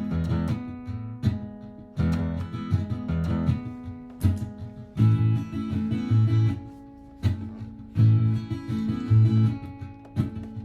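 Martin GPCPA4 acoustic guitar played through a looper pedal: strummed chords with low bass notes in a repeating pattern, a fresh attack every second or two.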